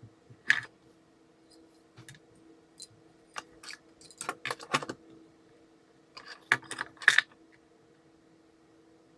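Irregular sharp clicks, taps and light rattles of small hard parts being handled, in three spells: one about half a second in, a busy run from about two to five seconds, and a last cluster around six and a half to seven seconds.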